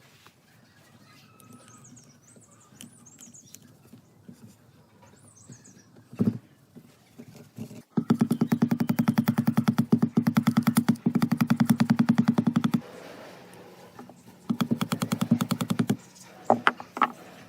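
A machine with a fast, even rattle runs for about five seconds, stops, then runs again briefly, followed by a few separate clicks.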